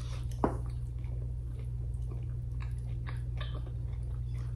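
A person chewing spicy chicken wings close to the microphone: a run of faint chewing clicks, with one sharp click about half a second in, over a steady low hum.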